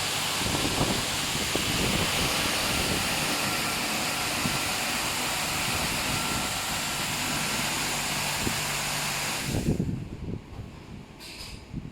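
Touchless car wash machine running: a steady, loud rush of noise with a low hum underneath, cutting off suddenly near the end.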